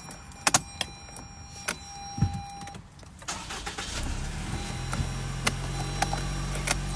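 A few sharp clicks in the first two seconds. Then, from about four seconds in, a car engine runs steadily and grows louder.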